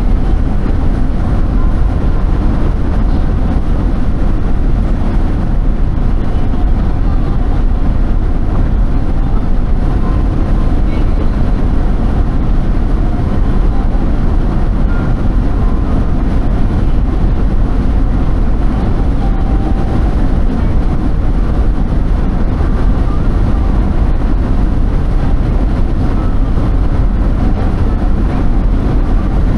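Steady low rumble of a vehicle on the move: engine and road noise, even throughout with no breaks.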